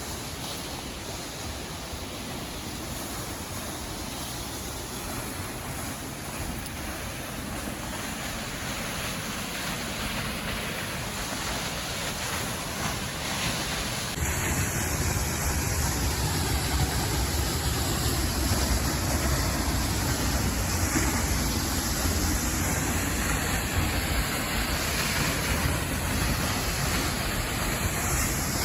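Steady rushing roar of a 32-metre waterfall, growing gradually louder, then louder again from about halfway through.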